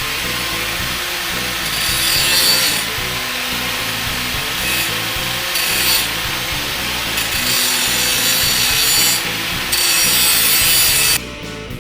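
Metal plates being ground on a grinder to clean up their profiles: a steady abrasive hiss that swells and eases as the work is pressed on and eased off. It cuts off abruptly near the end.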